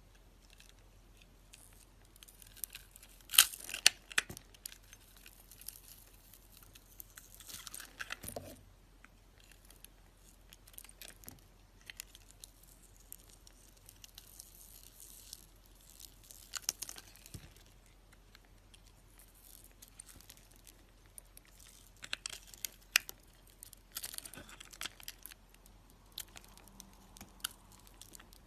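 A knife blade carving a bar of soap: several bursts of crisp scraping and crackling as it cuts in, with short pauses between the strokes.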